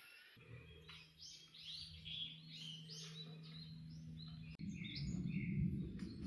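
A bird singing a quick run of short, arching chirps. Under it there is a faint steady low hum, and a louder low rumbling noise comes in abruptly about four and a half seconds in.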